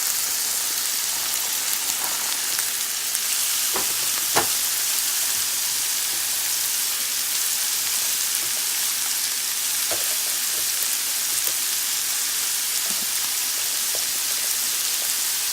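Chicken frying and sizzling steadily in oil in a pan over medium-high heat. There are a few sharp clicks of a utensil against the pan about four seconds in and again near ten seconds.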